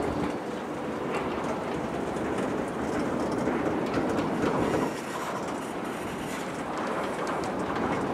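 Freight train of tank cars and a covered hopper rolling slowly past, its steel wheels rumbling and clicking over the rails.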